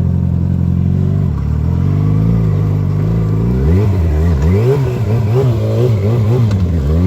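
Sport motorcycle engine idling, then revved up and down several times from about two seconds in, the revs rising and dropping in quick swings through the second half.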